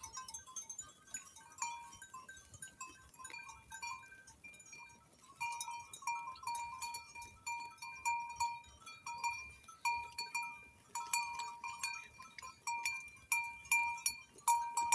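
Small metal bells worn by sheep clinking irregularly as the animals move and graze close by, growing louder and busier about halfway through.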